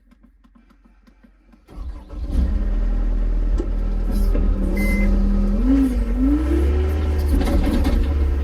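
A vehicle engine starts about two seconds in and runs loudly, its pitch rising and dipping as it is revved, with a short beep near the middle.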